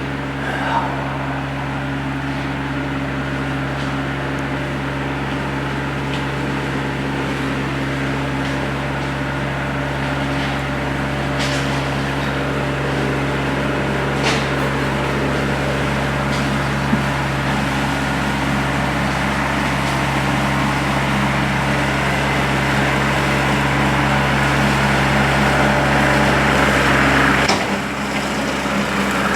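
A tractor engine running at a steady speed, its drone growing slightly louder, then its tone dropping suddenly near the end. A few faint clicks sound over it.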